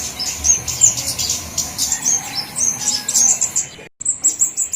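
Flowerpeckers (cabe-cabean) giving rapid, thin, very high-pitched chirps and twitters, several notes a second, as used in a bird-lure (pikat) recording. The chirping cuts out for a split second near the end, then starts again.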